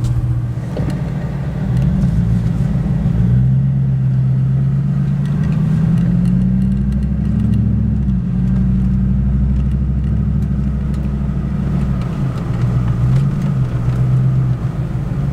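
Chevy pickup truck engine pulling away and driving: the engine note climbs steadily, drops sharply about halfway through as it shifts up, then rises and falls again.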